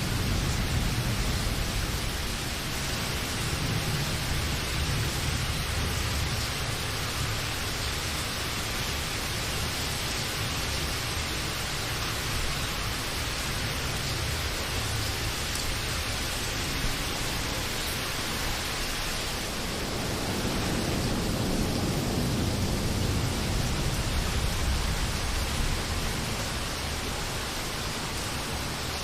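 Steady rain, an even hiss of falling water. Low rolls of distant thunder swell under it at the start and again about two-thirds of the way through.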